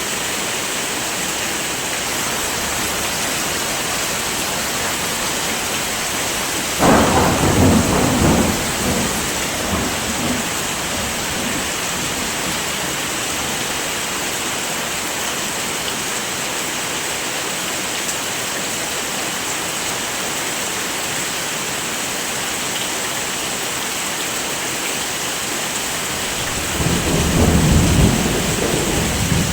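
Heavy rain falling steadily, with two rolls of thunder: one breaking suddenly about a quarter of the way in and rumbling for a few seconds, and another near the end.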